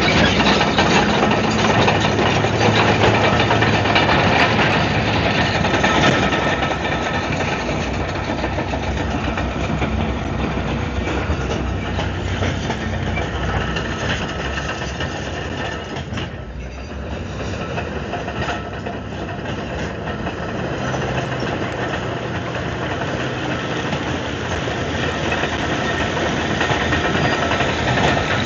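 Komatsu D155AX-7 crawler bulldozer working: the diesel engine running under load with a continuous heavy clatter from the tracks and machine. The sound eases briefly a little past halfway, then builds again.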